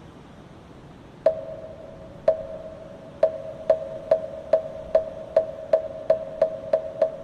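Moktak (Buddhist wooden fish) struck with a wooden mallet, each stroke a sharp knock with a short pitched ring. Two slow strokes a second apart, then a run of strokes that gradually speeds up to about three a second.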